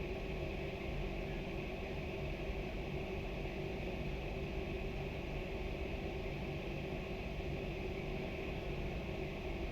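A steady machine hum with a constant low drone and a faint hiss, unchanging throughout.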